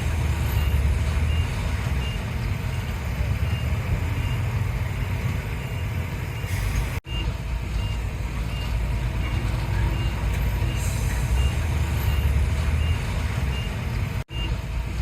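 Heavy diesel earthmoving machinery running with a steady low rumble, while a reversing alarm beeps about twice a second. The sound drops out for an instant twice, about halfway through and near the end.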